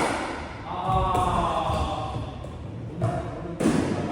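Pickleball paddles striking a plastic ball during a dink and volley drill: a sharp pop right at the start, a softer tap about three seconds in and another sharp pop just after. A drawn-out voice call sounds in between.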